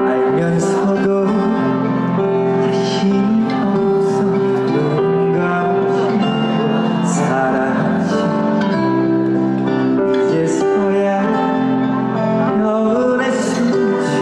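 Live band playing a trot song, with guitar prominent over sustained melodic tones; no clear lead vocal line stands out.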